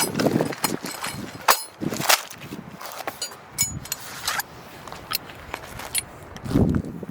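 Irregular handling sounds: sharp clicks and knocks, a few of them ringing like small metal parts clinking, with rustling and low thumps in between.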